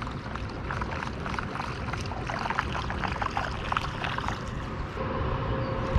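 Water lapping and trickling around a kayak, with many small irregular splashes and ticks. A faint steady hum comes in near the end.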